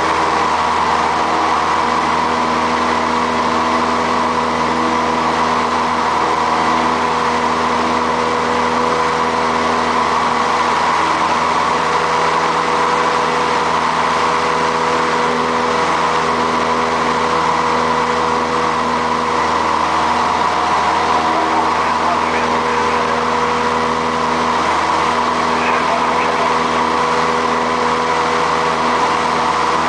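Light aircraft's piston engine running steadily, a constant drone heard inside the cockpit.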